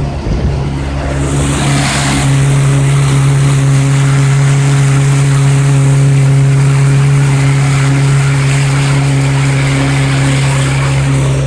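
Yamaha 115 hp two-stroke outboard motor running at a steady cruising speed, its tone holding an even pitch, with a brief rush of hiss between about one and two seconds in.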